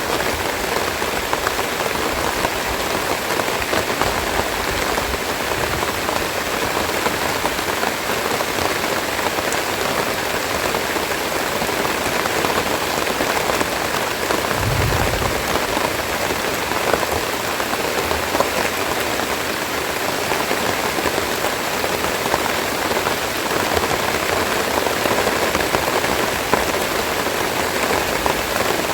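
Steady rain falling, an even dense hiss with fine raindrop patter. A brief low thump about halfway through.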